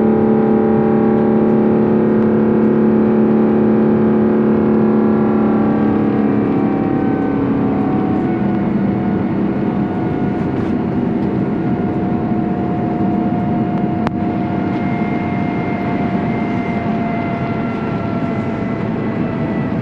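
Airbus A350-900's Rolls-Royce Trent XWB engines at climb thrust, heard from inside the cabin as a loud drone with several steady tones. About six seconds in the tones slide lower as the thrust is pulled back after takeoff, and the sound eases slightly.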